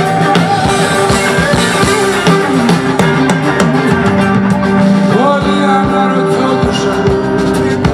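Live rock band playing an instrumental passage: guitars over a steady drum-kit beat.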